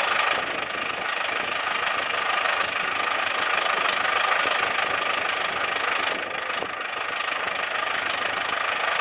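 Engine of farm planting machinery running steadily, with a slight dip in level a little past the middle.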